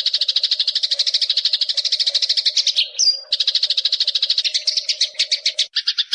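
Eurasian tree sparrow chattering in a fast, even run of high chirps, about a dozen a second. It breaks off briefly about halfway with a short whistle, then resumes, changing character abruptly near the end.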